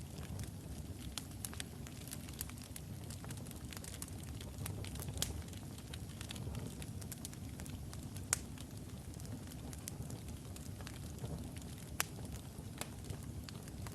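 Wood logs burning in a fireplace: a steady low roar of flame with scattered sharp crackles and pops, a few louder snaps standing out.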